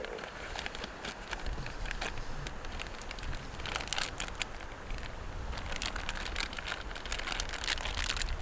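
Steak searing in smoking-hot beef tallow in a cast iron pan: a steady sizzle with irregular spitting pops of fat.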